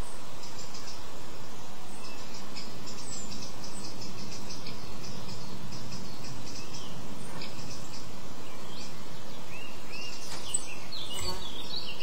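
Small woodland birds calling: a rapid series of very high, thin notes through the first half, then several short down-slurred chirps and a busier flurry of calls near the end, over a steady background hiss.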